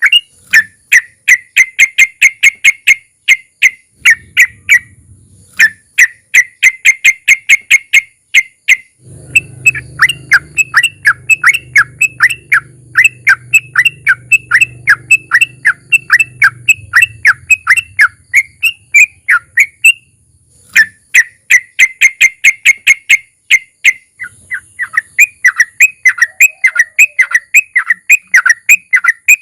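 Yellow-vented bulbul (trucukan) singing its 'ropel': long, fast strings of sharp repeated notes, about six a second, broken by short pauses. A faint low hum sits beneath the song through the middle part.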